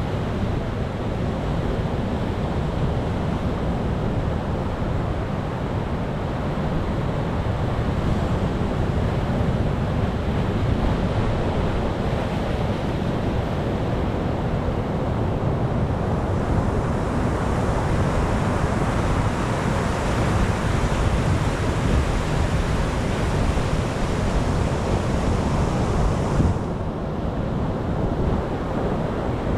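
Ocean waves surging on the shore: a steady low rumble of surf, with a hissing wash that swells from about halfway through and cuts off abruptly near the end.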